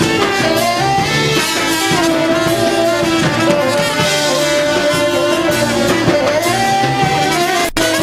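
Live jazz quintet playing: horn lines hold long notes that step and bend in pitch over a dense backing of drums and guitar. There is a momentary break in all the sound near the end.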